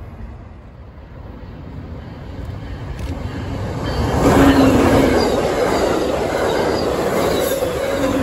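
Amtrak passenger train passing close by at speed: a low steady background, then from about four seconds in a loud rush of wheels on rail that stays loud as the cars go by, with a few thin high whines in it.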